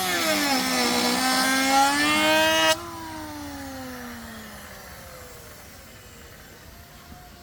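Electric hand-held power tool cutting into wood, its motor whine wavering under load with a hiss of wood being cut. It switches off after about three seconds, and the motor winds down with a steadily falling pitch.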